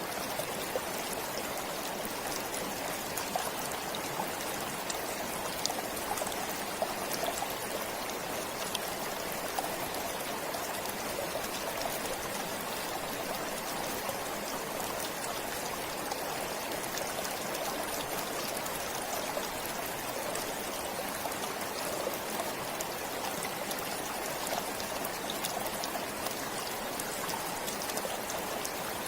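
A forest stream flowing steadily, a continuous rush of water with small splashing ticks.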